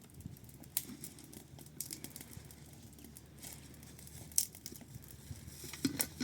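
Light crinkly rustling with scattered sharp clicks and ticks, the loudest about four and a half seconds in, and a cluster of them near the end.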